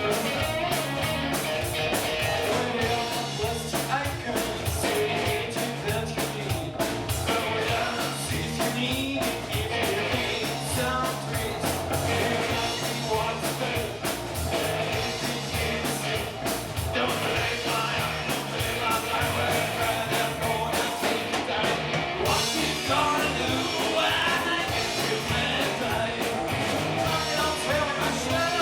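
Rock band playing live: a sung vocal over guitar, bass and drums with a steady beat.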